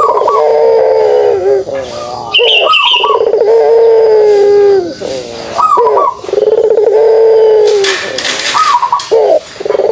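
Puter pelung dove (a Barbary dove kept for its long coo) giving its kugeruk call about three times: each is a short upward note followed by a long, drawn-out low coo of nearly two seconds. A brief high chirp comes about two and a half seconds in.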